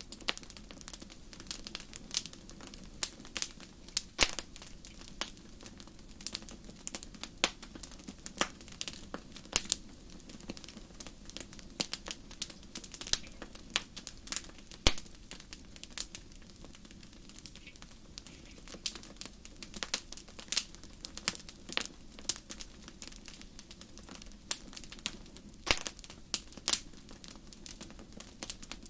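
Wood campfire crackling: irregular sharp pops and snaps, a few louder ones among many small ones, over a steady low background of the burning fire.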